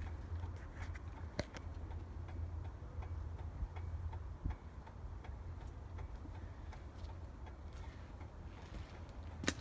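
Faint, even ticking of the hazard flasher relay with the engine off, over a low steady rumble, with a few light clicks.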